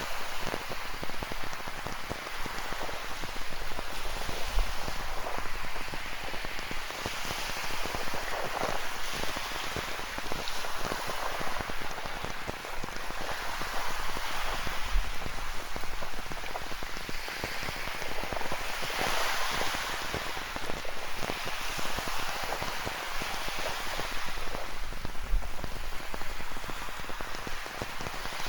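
Steady rain falling, with ocean waves surging and breaking on a rocky shore and the noise swelling about every five seconds.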